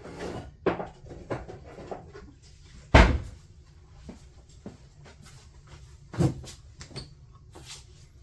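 Irregular knocks and clicks of tools and small objects being handled and set down on a workbench, with the loudest thump about three seconds in and another firm knock about six seconds in.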